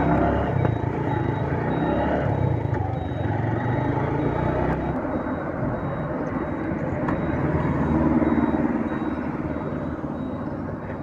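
Motorcycle engine running under way, with road and traffic noise; it gets a little louder about eight seconds in.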